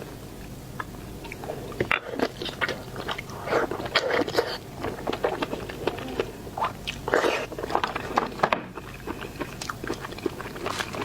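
A person biting and chewing seafood close to the microphone: irregular bursts of wet smacking and sharp mouth clicks, heaviest a few seconds in and again past the middle.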